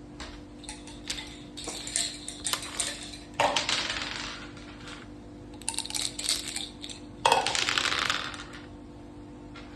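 Dice and checkers clattering on a backgammon (mak saka) board: runs of quick clicks, and two louder rattles about a second long, one about three and a half seconds in and one about seven seconds in.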